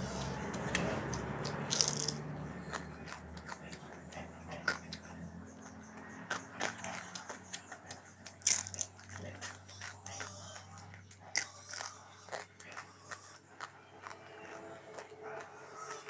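A person biting and chewing flaky flatbread close to the microphone: many short, sharp mouth clicks and crackles at an uneven pace, with the loudest bites about two, eight and a half and eleven and a half seconds in.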